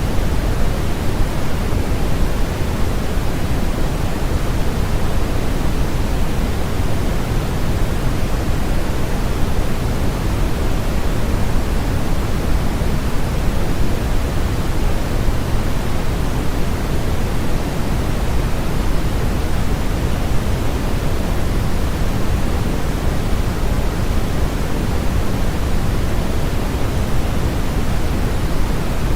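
Steady, unchanging synthesized noise sold as white noise, a constant hiss that is fuller in the low end than in the treble.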